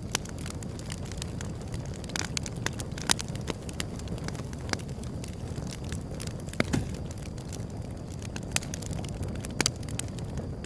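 Wood fire burning, with a steady low rumble of flames and irregular crackles and pops from the burning wood; the loudest pop comes about three seconds in.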